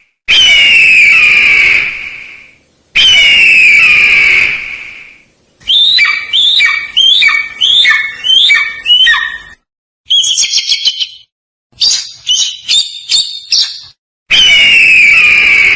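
Loud bird calls: long harsh calls about two seconds each, one near the start, one about three seconds in and one near the end, with a run of quick falling chirps and then a cluster of short sharp notes in between.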